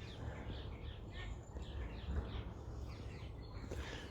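Small songbirds chirping, a steady run of short chirps that each fall in pitch, about three a second, over a low background rumble.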